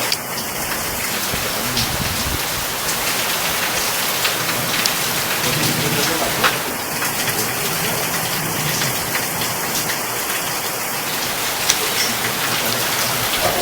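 Steady rain falling, an even hiss with scattered sharp drop splashes.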